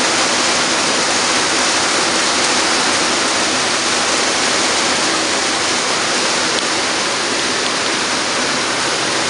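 Heavy rain hitting the roof, heard from inside as a loud, steady rush.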